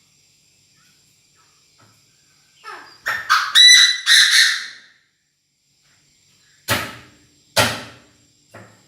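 Captive decoy Chinese francolin giving its loud, harsh call, used to draw in wild birds: a run of rasping notes about three seconds in, then two more single notes about a second apart near the end.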